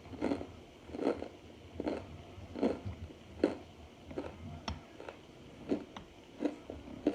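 Crunching as chunks of Argo laundry starch are bitten and chewed. At first there is about one crunch every 0.8 s, then smaller, less regular crunches.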